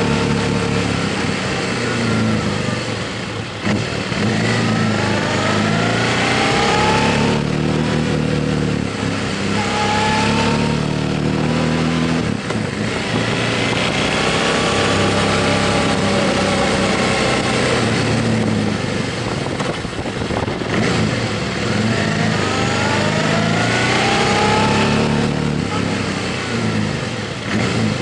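Motorcycle engine under way, its pitch rising repeatedly as it pulls through the gears, with brief dips between the rises, over a steady rushing noise.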